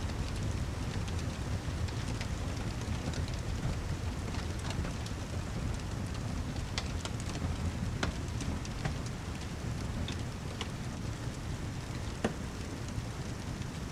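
Steady heavy rain with a low rumble underneath and scattered sharp crackles, the loudest a little before the end.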